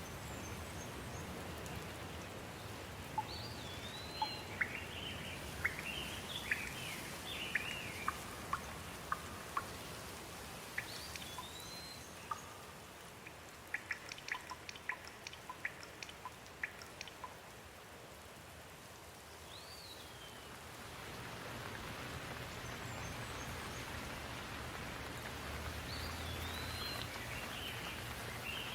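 Steady rain hissing, easing off a little just past the middle and then building again, with birds chirping now and then over it. A run of short sharp ticks of drops comes near the middle.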